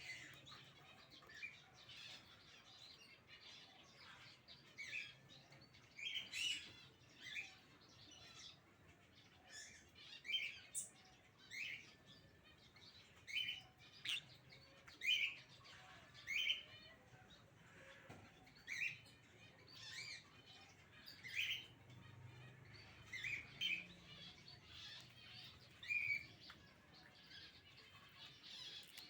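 Pineapple conures (a colour mutation of the green-cheeked conure) giving short chirping calls, roughly one every second or so, on and off.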